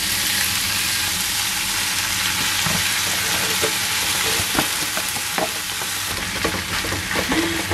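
Marinated dak galbi (spicy Korean chicken) frying in a hot pan as it is tipped in from a plastic tray: a steady sizzling hiss, with a few light knocks.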